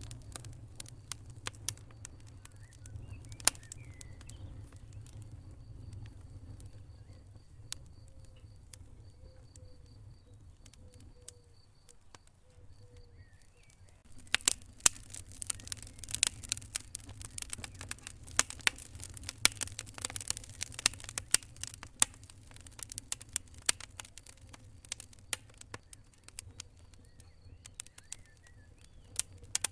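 Wood fire crackling in a fireplace: scattered sharp pops and snaps over a low steady rumble. The crackling grows much busier about halfway through.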